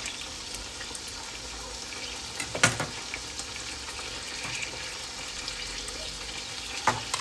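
Lamb and masala frying in a stainless steel pot, a steady soft sizzle. Two short sharp knocks cut through it, one about two and a half seconds in (the loudest) and one near the end.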